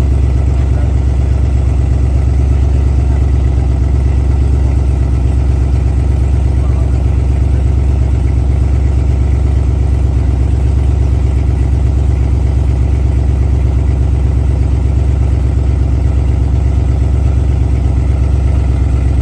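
A car engine idling loudly and steadily, a deep idle with an even flutter and no revving.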